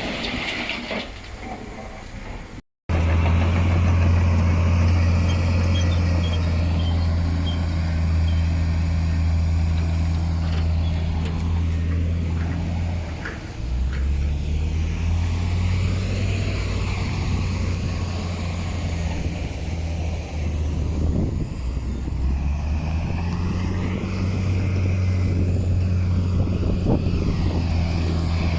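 Heavy diesel engine of earthmoving machinery running with a steady low drone. Its pitch shifts about halfway through and again later. A brief cut to silence comes a few seconds in.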